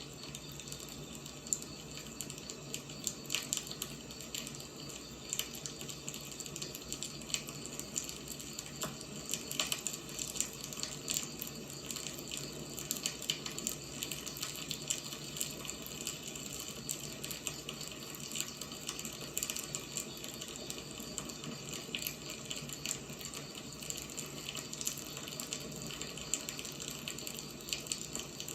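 Wood fire burning, with a steady hiss and frequent irregular sharp crackles and pops.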